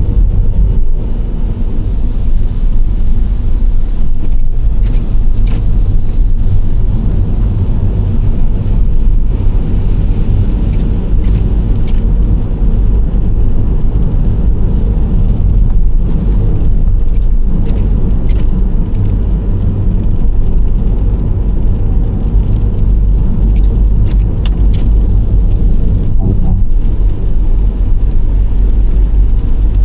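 Nissan Serena C25 minivan driving at steady speed: a continuous low engine and road rumble with tyre noise, and a few faint scattered clicks.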